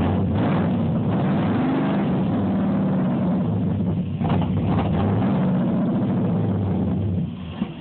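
Chevrolet ZZ502 big-block V8 crate engine with Powerjection III throttle-body fuel injection running steadily, then dropping away sharply near the end, on an engine being sorted out for cold-start problems.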